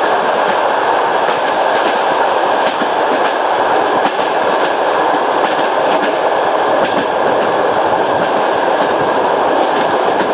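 Passenger train running steadily, its wheels clacking over rail joints in quick pairs and clusters of clicks above a constant rolling rumble.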